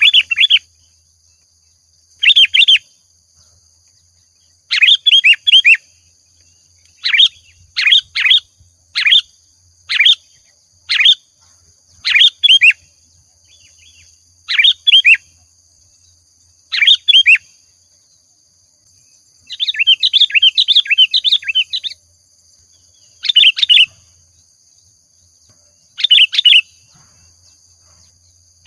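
Sooty-headed bulbul (kutilang) singing in lively, energetic form: short bright chirping phrases repeated every second or two, with a longer run of rapid chirps about two-thirds of the way through.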